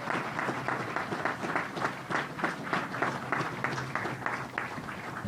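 Audience applauding, the individual claps thinning out toward the end.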